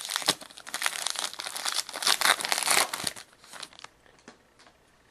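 A trading card pack's wrapper crinkling and tearing as it is ripped open by hand, a dense crackle for nearly four seconds, then a few light clicks as the cards come out.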